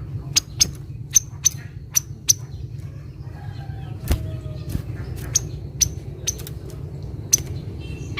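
Kaso-kaso bird giving short, sharp, high chip calls, about fifteen at uneven intervals, over a steady low hum. The chips come from a lure recording.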